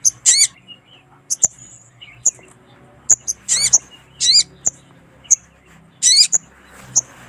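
Little spiderhunter (sogon) calling: short, sharp, very high chips every half second or so, broken by four louder, longer calls, near the start and at about three and a half, four and a quarter and six seconds in. The calls are a female's, calling a male.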